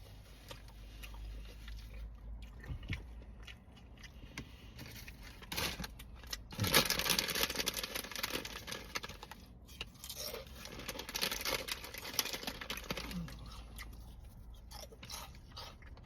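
Close-up chewing with crunching, loudest from about six to twelve seconds in.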